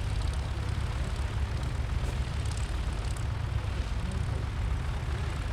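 A Czech SportCruiser light aircraft's piston engine and propeller running steadily, heard as a continuous low drone with no sharp changes.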